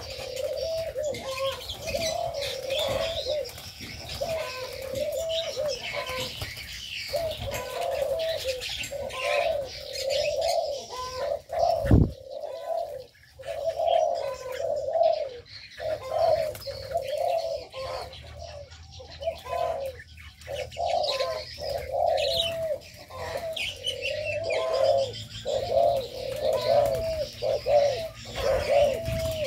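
Doves cooing over and over, several calls overlapping, with small birds chirping higher up. A single sharp knock cuts in about twelve seconds in.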